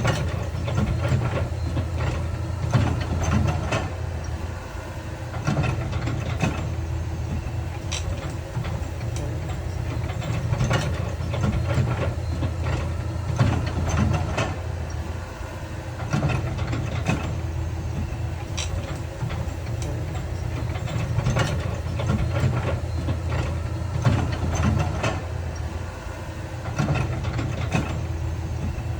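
Heavy earthmoving machinery at work: a large diesel engine running steadily, with irregular metallic clanks and knocks every second or two.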